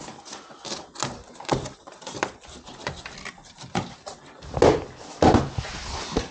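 Tools and building boards being handled: a run of irregular clicks and knocks, with two louder thuds about four and a half and five seconds in.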